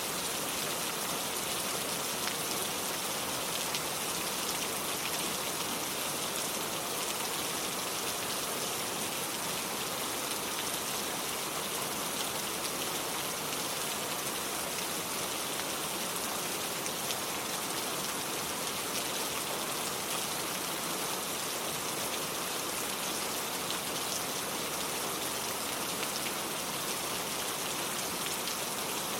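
Steady rain falling: an even hiss of many small drops, with faint scattered drips and no let-up.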